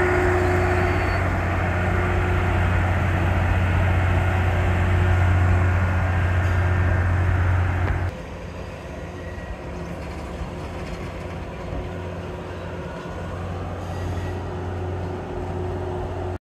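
Diesel passenger train crossing a stone arch viaduct: a steady low engine drone with rumble, which drops noticeably in loudness about eight seconds in.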